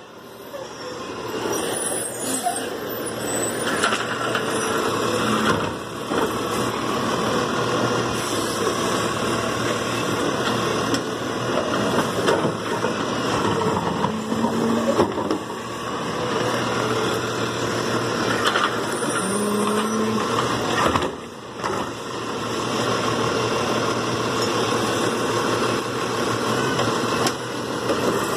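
Garbage truck running steadily, a continuous engine and machinery noise with two short whines partway through.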